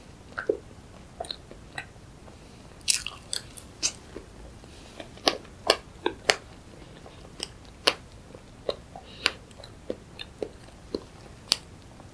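Mouth sounds of someone eating soft strawberry cream cake: irregular wet clicks and smacks of chewing, about twenty scattered sharp ones with quiet between.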